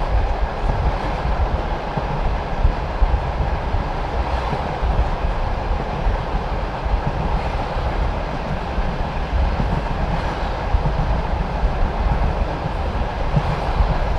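Passenger train carriage rolling steadily over the track, heard from the carriage window: a constant low rumble of the wheels on the rails, with occasional clack of the wheels crossing rail joints.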